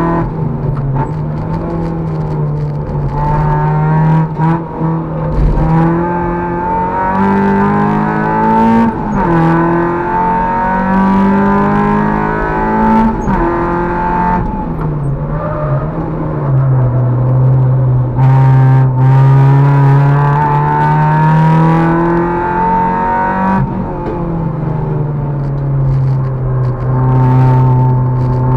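Fiat Cinquecento Sporting's swapped 1.2 16-valve FIRE four-cylinder engine, with a straight-through stainless exhaust, driven hard on track and heard from inside the stripped cabin. Its pitch climbs under throttle and drops suddenly several times between pulls, with one long, slow climb about halfway through.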